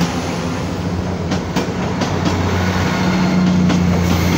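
ScotRail diesel multiple unit running past along the platform: a steady engine drone, with the wheels clicking over rail joints a few times.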